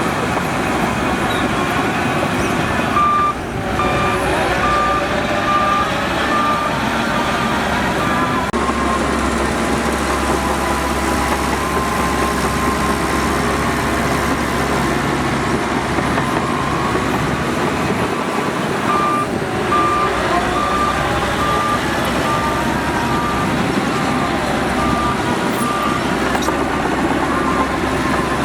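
Heavy earthmoving machinery running steadily, with a reversing alarm beeping at one pitch, about one and a half beeps a second. The beeping runs for about five seconds starting some three seconds in, and starts again at about nineteen seconds.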